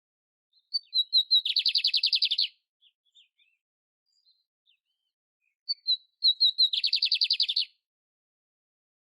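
Domestic canary singing: two phrases, each opening with a few sharp high notes that run into a rapid trill about a second long, with faint scattered chirps in between.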